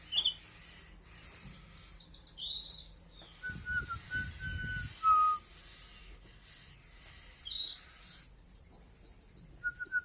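Pet canary chirping in short high calls and, near the end, a fast run of rapid repeated notes. In the middle a person whistles a few short steady notes to it.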